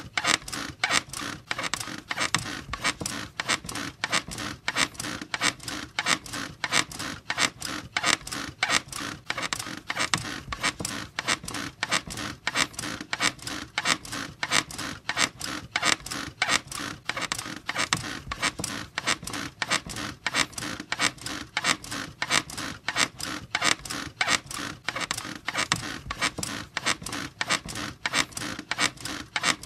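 A bed squeaking over and over in a steady rhythm, about three squeaks a second.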